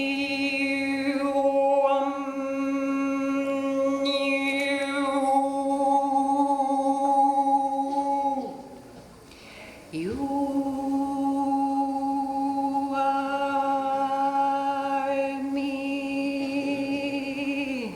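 A woman's voice singing two long held notes on the same pitch, each about eight seconds, with a breath between them about nine seconds in. The second note slides up into pitch at its start, and the upper overtones shift while each note is held.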